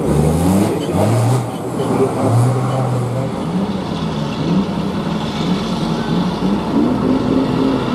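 Heavy truck engine revving hard several times, its pitch climbing in short pulls during the first three seconds, then running on with a wavering, lower-level drone.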